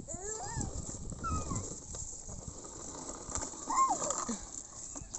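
A small child making short wordless vocal sounds, several high squeals and calls that glide up and down in pitch, with pauses between them.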